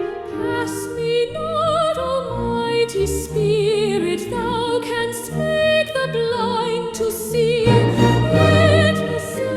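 Choral hymn music: voices sing with vibrato over a sustained accompaniment, the notes changing every second or so.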